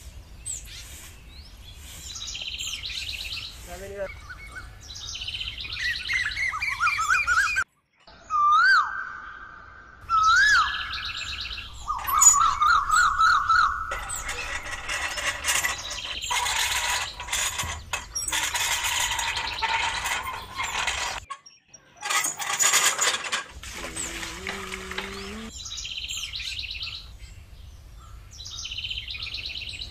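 Birds chirping and whistling in repeated bursts, some with quick trilling, rising and falling whistles. A stretch of hissing noise runs through the middle, and a low steady hum lies underneath.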